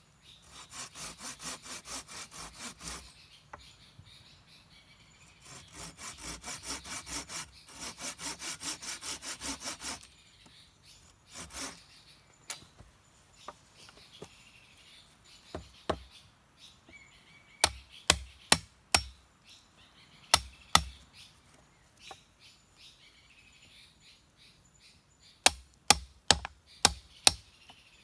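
A hand saw cutting wood in two runs of quick, even strokes, about five a second. These are followed by groups of sharp strikes on wood near the end.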